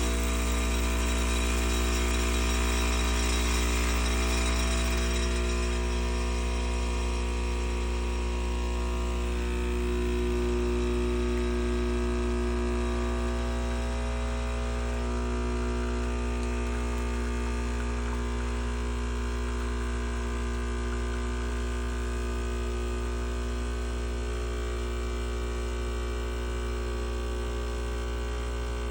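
Espresso machine's pump running while brewing, a steady buzzing hum with many overtones that eases slightly after about five seconds.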